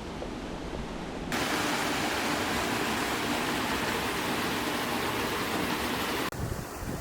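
Low wind rumble, cut abruptly about a second in to a loud, steady rush of falling water from a small oasis waterfall or spring stream, which cuts off just as abruptly near the end.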